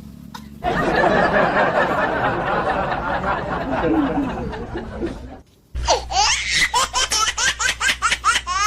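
Laughter sound effects: a group of people laughing together for several seconds, then, after a short break, one rapid high-pitched laugh made of many quick rising notes.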